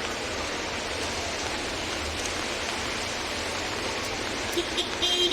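Steady hiss of rain and traffic on a wet city street. A car horn toots briefly near the end and then sounds again for longer.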